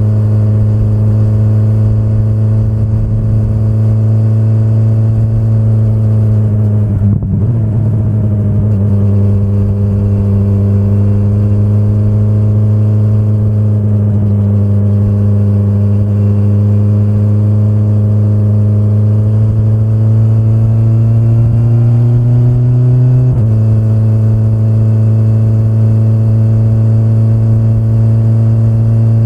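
2025 BMW S1000RR's inline-four engine running at steady mid revs under way. Its pitch sags with a brief rough patch about seven seconds in, creeps slowly upward, then steps down slightly about twenty-three seconds in.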